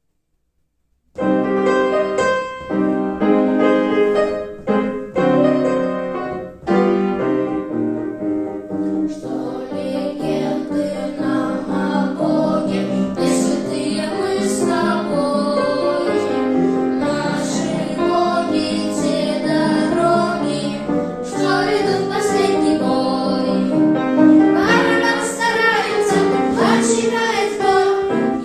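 A piano (or keyboard) introduction starts suddenly about a second in, and from about nine seconds in young voices sing a song over the piano accompaniment.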